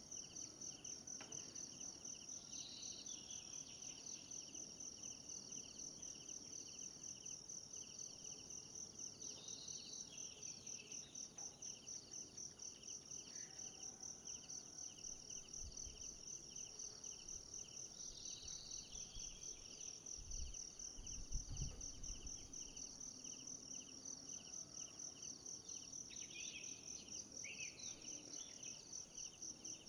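Steady, rapidly pulsing chorus of insects in tropical forest, a high trill over a lower pulsed one, with a few short bird calls scattered through. A brief low rumble comes about two-thirds of the way in.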